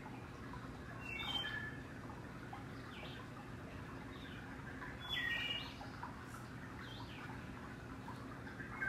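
Birds chirping in short, downward-sliding calls, the loudest about a second in, about five seconds in and again at the end, over a steady low hum.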